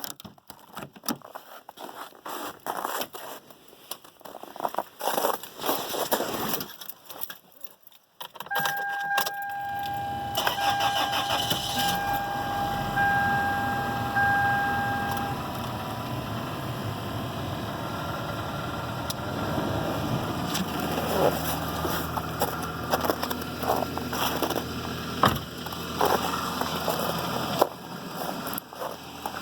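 Keys jangling and clicks, then a repeating two-tone dashboard warning chime. About ten seconds in, the starter of a 2001 Toyota Corolla's 1.8-litre four-cylinder cranks briefly, and the engine catches at once on a cold start at 15°F and settles into a steady idle.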